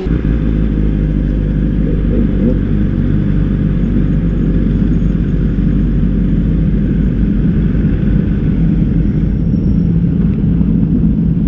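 A vehicle engine running steadily at a constant pitch, a continuous low sound with no revving.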